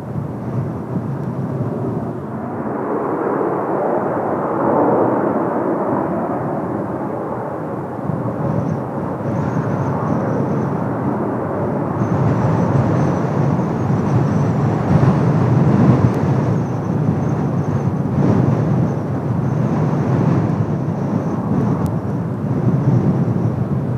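Kawasaki T-4 jet trainers' twin turbofan engines running, heard as a broad rumble that swells and fades, with a thin high whine joining from about nine seconds in. Gusting wind is mixed in.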